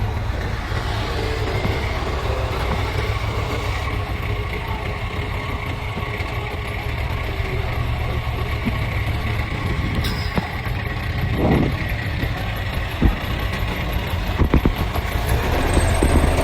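Heavy diesel earthmoving machinery engine running steadily, with a few short knocks or clanks in the second half.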